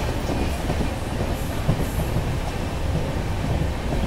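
Passenger train running at speed: a steady rumble of wheels on rail with scattered clacks from the rail joints.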